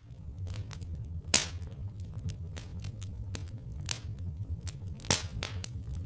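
Wood fire crackling: scattered sharp pops and snaps, two louder ones about a second and a half in and about five seconds in, over a steady low rumble.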